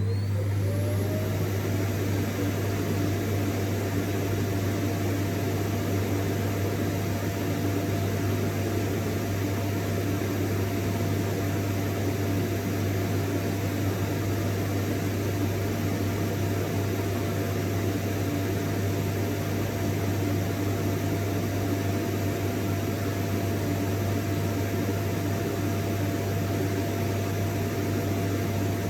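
Vacuum cleaner running steadily with a low hum, a motor whine and a broad airflow hiss; the whine finishes rising and settles on one pitch about a second in, as the motor comes up to speed.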